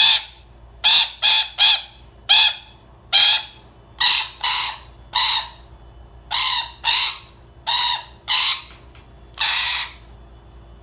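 A parrot squawking repeatedly, about fourteen loud, harsh calls at one or two a second, stopping shortly before the end.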